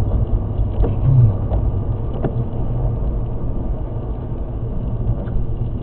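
Road noise heard from inside a moving car: a steady low rumble of engine and tyres, with a few faint ticks.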